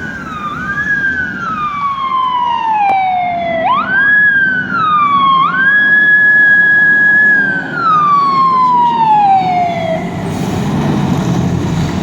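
Fire truck siren wailing: the pitch climbs, falls slowly, climbs again quickly and holds, then sinks away and stops near the end, leaving a low vehicle rumble.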